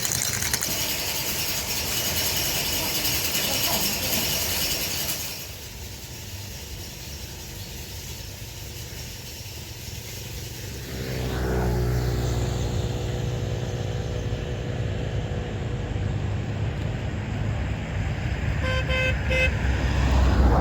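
A steady hiss for about five seconds, then a motor vehicle's engine starting to run low with rising pitch, and a short horn toot near the end.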